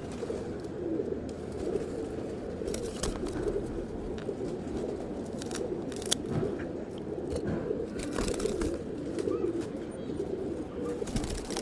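Domestic pigeons cooing steadily, a continuous low warbling, with a few brief clicks or taps now and then.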